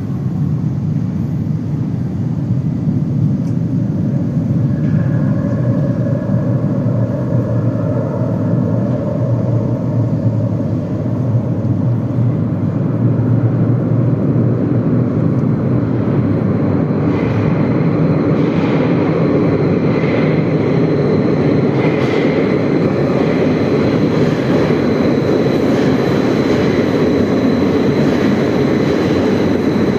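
Minsk metro train running with a loud, steady rumble of wheels on rail. Faint electric motor whine comes and goes in the first third, and a higher steady whine joins about halfway through.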